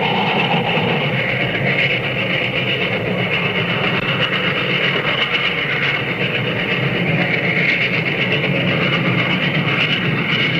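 Steam locomotive train running, a steady dense rush and rumble with rail noise and no breaks or clear beat.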